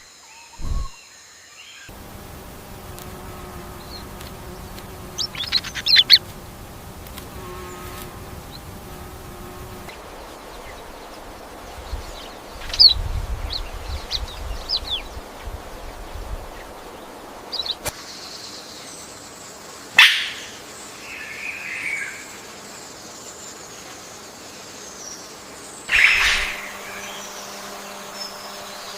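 AI-generated rainforest ambience: short bird chirps and whistles over a steady insect-like hum and buzz. The background changes abruptly about every eight seconds, and two louder, sharp calls come in the second half.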